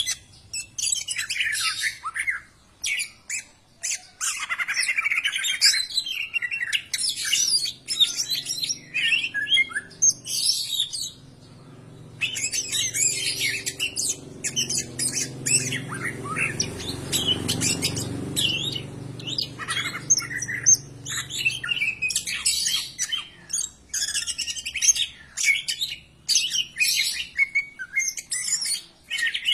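Cucak ijo (greater green leafbird) singing: a fast, varied run of high chirps, whistles and squawky phrases, nearly continuous with a short break about eleven seconds in. A low hum rises under the song in the middle and fades again.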